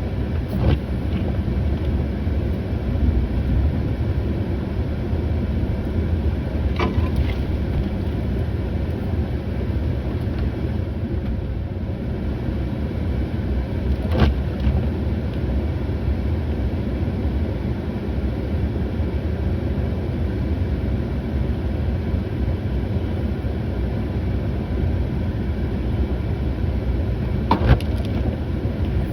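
A vehicle engine running steadily with a low rumble, with a few short sharp knocks or clicks scattered through it.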